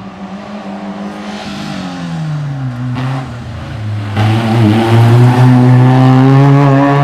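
Racing car engine approaching: its pitch drops as it slows, then it grows loud and holds a steady note as it comes close past.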